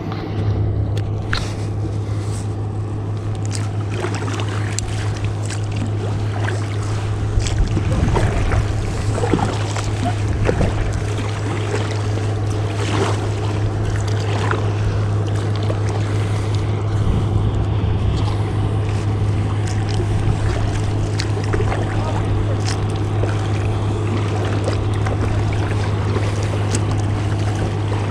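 Steady low engine drone of a motorboat on the lake, holding one pitch throughout, with scattered short splashes of water over it.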